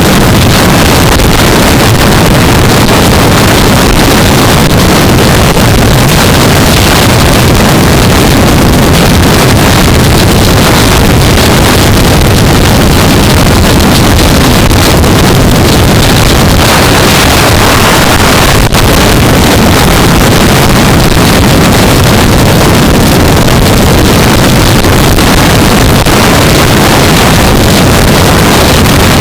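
Loud, steady wind rush over a helmet-mounted camera microphone at riding speed, mixed with the drone of a 2015 Yamaha R3's parallel-twin engine.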